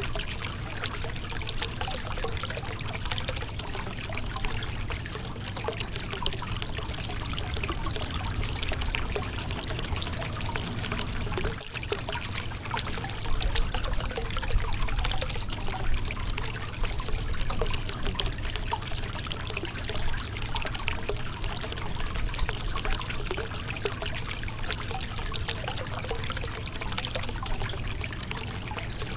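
Shallow river water running and splashing over a rocky bed, a steady rush with small irregular gurgles and splashes.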